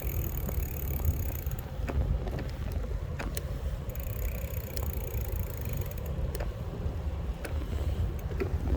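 Riding noise from an electric bike: wind buffeting the microphone with scattered rattles and clicks. A faint high whine drops out about a second and a half in and comes back for a couple of seconds in the middle.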